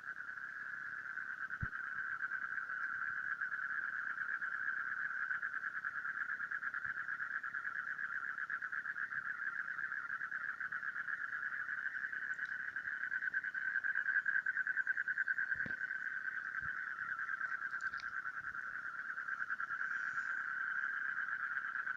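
A continuous, very rapidly pulsing animal trill held at one steady pitch without a break, with a few faint knocks.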